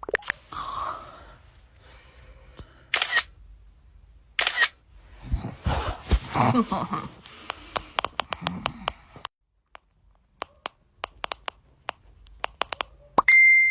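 Camera shutter clicks, many in quick succession and thickest in the last few seconds, as a string of photos is taken. A short stretch of voice and rustling sits in the middle.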